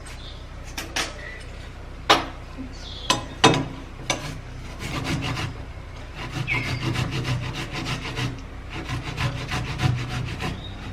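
A tomato being grated by hand on a grater: a few separate knocks in the first four seconds, then quick repeated rasping strokes from about five seconds in.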